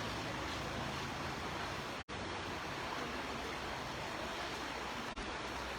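Steady rushing of rainwater running through an open street gutter, broken by two very short dropouts.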